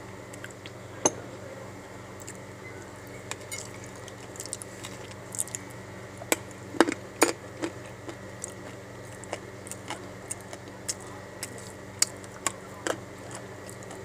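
Dry edible clay crunching and cracking in sharp, irregular clicks, loudest around the middle.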